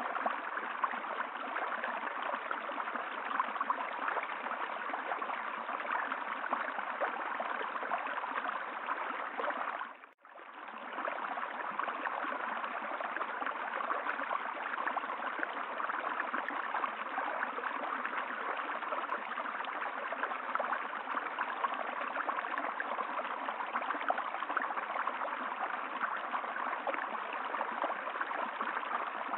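Steady rushing of running water, like a stream flowing over rocks. About ten seconds in it drops out briefly and fades back in.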